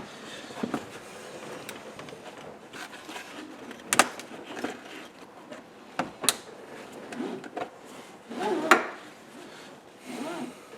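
Plastic interior trim of a 2010 Ford Mustang being worked loose by hand: rustling and handling noise with sharp plastic clicks and knocks, the loudest about 4, 6 and 9 seconds in.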